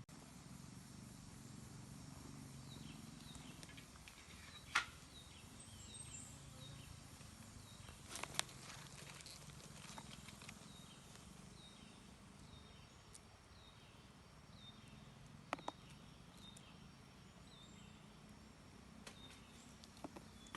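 Faint outdoor ambience: a small bird repeats a short, high, falling note about every 0.7 seconds. A few sharp knocks or clicks, the loudest about five and eight seconds in.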